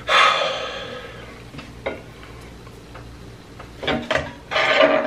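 Close-mic eating sounds: a loud bite to start, then wet chewing with small clicks and mouth smacks, and two louder bursts of chewing near the end.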